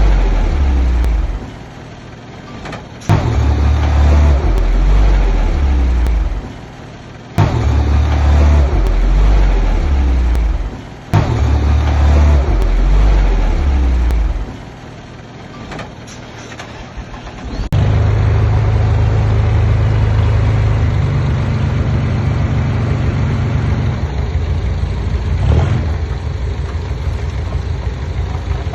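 Heavy diesel construction machinery running under load. The sound drops away abruptly several times in the first half, then settles into a steadier, lower engine sound for the rest.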